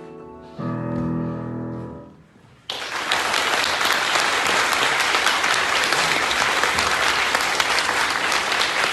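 An ensemble's final chord sounding and dying away, then audience applause breaking out suddenly just under three seconds in and continuing.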